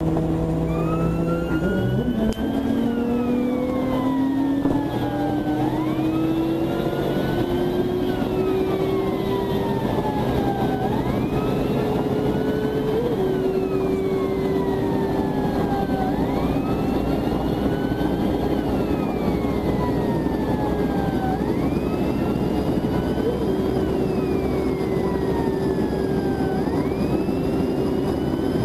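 Police car siren wailing in repeated sweeps, each rising quickly and falling slowly, about one every five seconds, over the steady drone of a vehicle engine running at speed.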